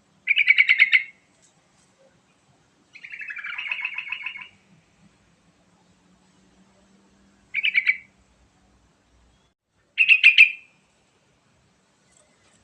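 Yellow-vented bulbul (trucukan) singing: four short phrases of quick notes, spaced a few seconds apart, the second one longer than the rest.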